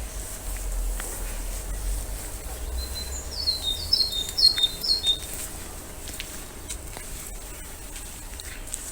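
A songbird singing a quick phrase of about six short, high, downward-sliding notes a few seconds in, over a low rumble of wind on the microphone.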